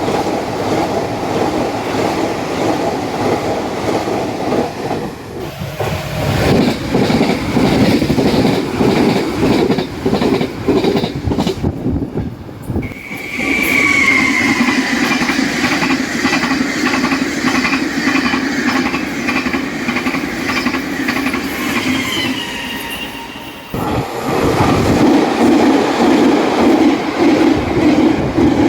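Taiwan Railway trains passing at high speed, over 100 km/h, with wheels clacking rapidly over the fishplate rail joints. There are several separate passes that change abruptly. In the middle pass a high whine falls slowly in pitch.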